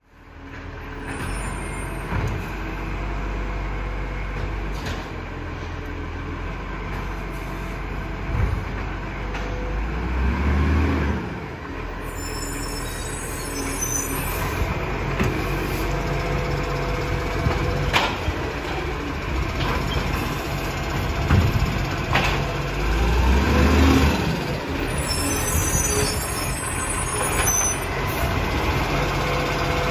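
Recycling truck running, its engine revving up and back down twice, with a few sharp knocks and clatters.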